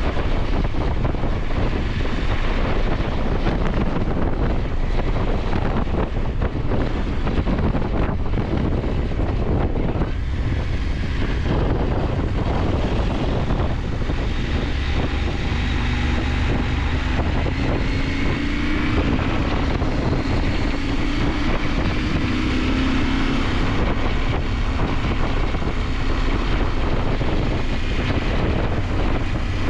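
KTM 890 Adventure's parallel-twin engine running under way, mixed with heavy wind rush on the microphone. In the second half the engine note climbs gradually as the bike accelerates.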